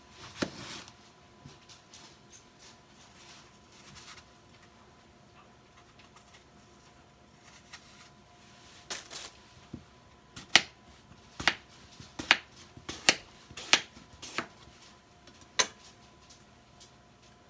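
Kitchen handling sounds: a short rustle about half a second in, then, from about nine seconds, a run of around ten sharp clicks and light knocks of objects being handled and set down.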